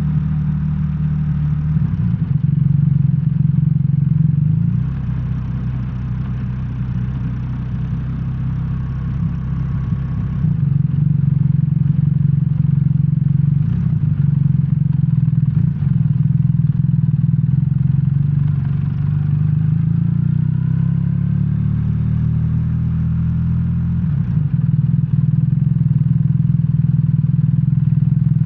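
BMW R1300R boxer-twin engine running under way, heard from the rider's seat. It holds a steady engine note, eases off for a few seconds and comes back on about ten seconds in, then the pitch climbs as the bike accelerates about twenty seconds in.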